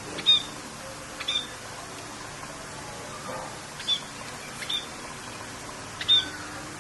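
A bird giving short, sharp chirps, five in all and a second or more apart, over a steady hiss of rain.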